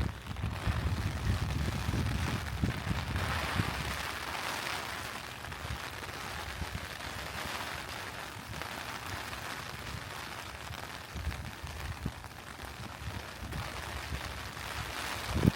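Steady rain with a low rumble of thunder over the first few seconds that fades away. A short thump near the end.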